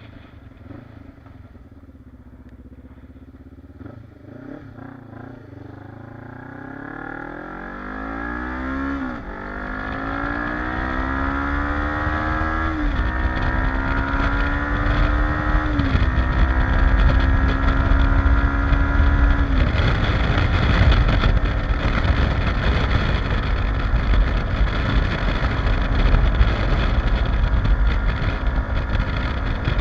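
Kawasaki KLE motorcycle engine pulling away and accelerating, its pitch rising and dropping back three times as it shifts up through the gears. After that it cruises at speed, and a loud, even wind rush on the microphone drowns the engine note.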